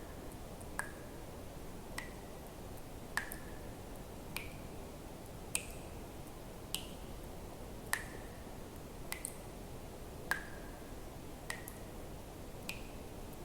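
Water drops falling one at a time into water, a sharp plink about every 1.2 seconds, each drop ringing at a slightly different pitch, over a faint steady hiss.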